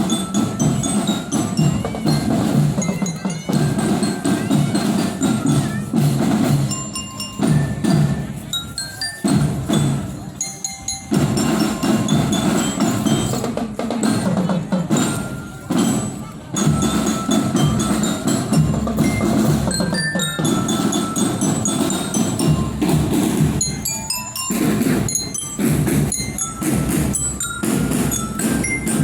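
A school marching drum band playing: the drums keep up a steady rhythmic beat under the bright, ringing melody notes of a bell lyra (marching glockenspiel), with a few short breaks between phrases.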